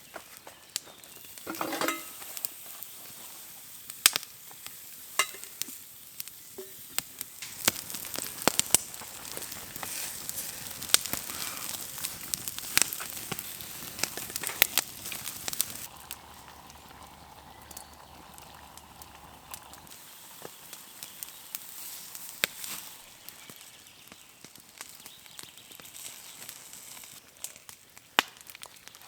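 Food sizzling in a pan over a campfire, a steady hiss, with the wood crackling and giving off sharp pops throughout.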